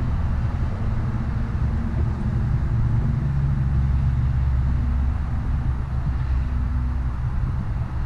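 Steady low rumble of a motor vehicle's engine running, swelling a few seconds in and easing off near the end.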